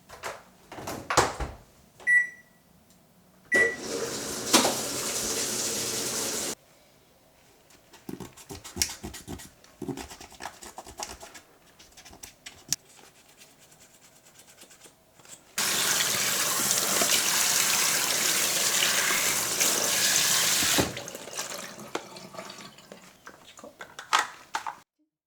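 Two short electronic beeps, then water rushing in two spells: about three seconds, and later about five seconds, with light knocks and clatter between.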